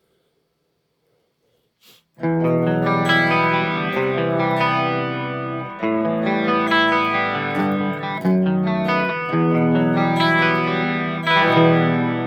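Electric guitar played through a chorus pedal, starting about two seconds in after near silence: sustained chords and notes that change about once a second, with a slightly overdriven tone.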